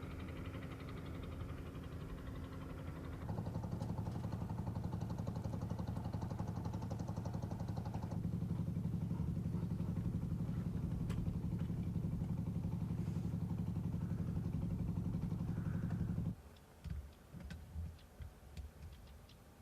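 An engine running steadily, growing louder about three seconds in, then cutting off abruptly near the end, after which a few faint clicks and knocks remain.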